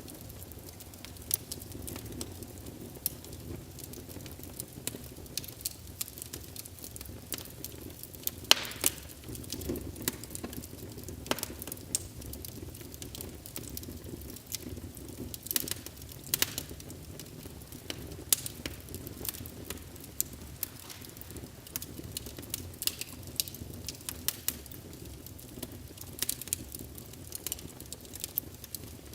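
Wood fire burning in a fireplace: a steady low rush of flames with frequent irregular crackles and pops, one louder pop about eight and a half seconds in.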